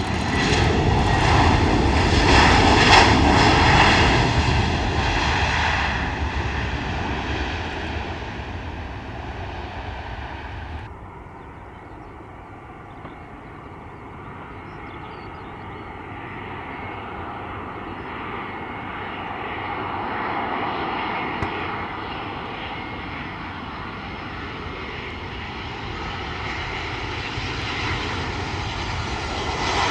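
Airliner engines running loud as the aircraft passes close by, then fading over several seconds. The sound drops abruptly about eleven seconds in. Near the end, another aircraft's engines grow louder.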